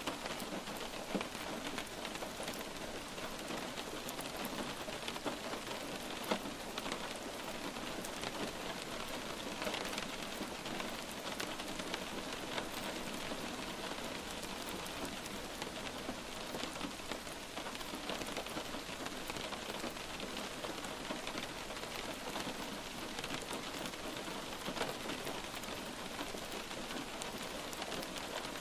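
Steady light rain falling on a surface, a constant hiss dotted with many small sharp drop impacts.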